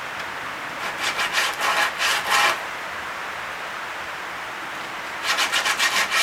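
Sandpaper rubbing by hand on a small hardwood fitting: two runs of quick back-and-forth strokes, one starting about a second in and another near the end.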